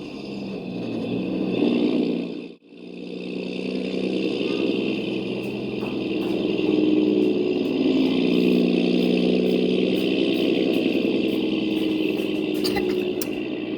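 Radio-controlled toy truck running: a steady motor sound whose pitch shifts a little. It cuts out for an instant about two and a half seconds in, and a few clicks come near the end.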